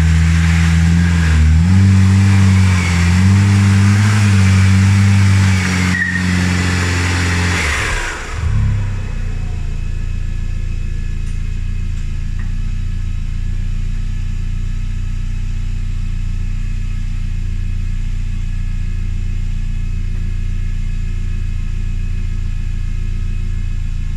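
Saab 2.3 turbo engine in a Commer van running at raised revs, with its pitch stepping a few times. About eight seconds in it drops back to a steady idle.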